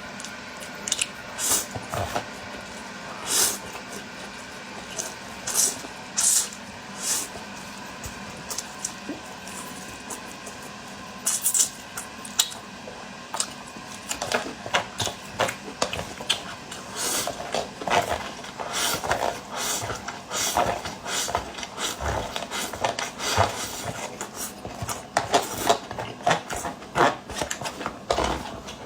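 Eating braised noodles: irregular chewing and mouth sounds with utensils clicking against a dish, over a faint steady hum.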